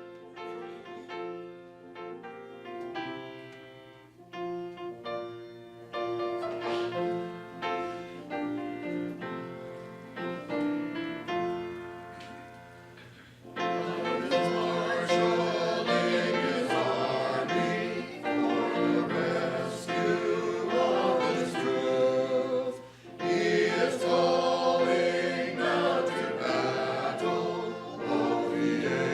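Congregational hymn: a keyboard plays the introduction alone, then about halfway in the congregation starts singing with it, noticeably louder.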